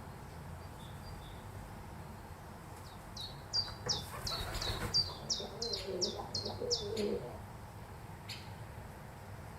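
A small songbird singing one phrase of about ten quick, high, down-slurred notes repeated evenly, starting about three seconds in and ending near the seventh second. A softer, lower sound comes in underneath during the middle of the phrase.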